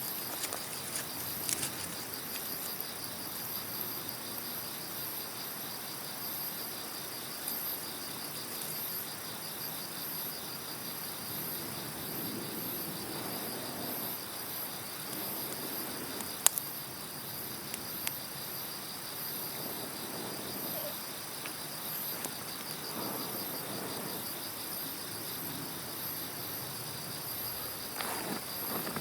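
Insects chirping in a steady, rapid pulsing rhythm, with a bonfire's wood burning underneath and giving an occasional sharp pop, the loudest about halfway through.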